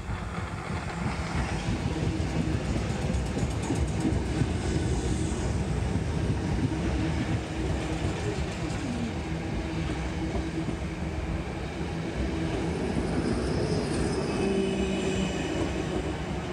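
Electric multiple-unit passenger train running along the platform: a steady rumble of wheels on rail. A faint whine comes in near the end.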